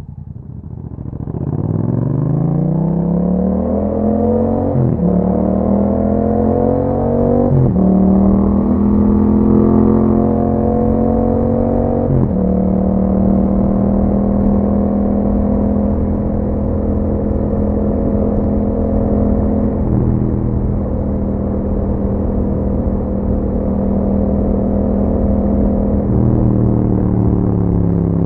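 2021 Yamaha MT-07's 689 cc parallel-twin engine through an Akrapovic exhaust, accelerating from low revs and shifting up three times, the revs dropping at each shift. It then holds a steady cruise, with a slight change in revs about 20 s in and again near the end.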